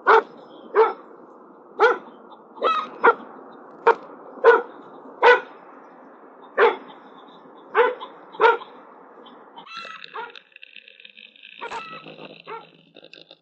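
A dog barking, about eleven single barks spread over the first eight and a half seconds, at coyotes that have come into the yard. A steadier, higher-pitched sound follows for about three seconds near the end.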